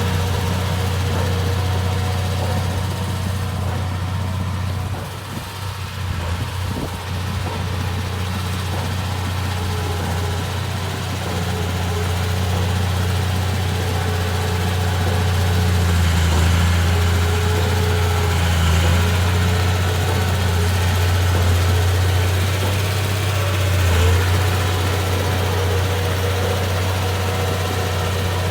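Komatsu D31P bulldozer's diesel engine running steadily with a deep hum. It dips briefly about five seconds in and swells with load around the middle and again near the end.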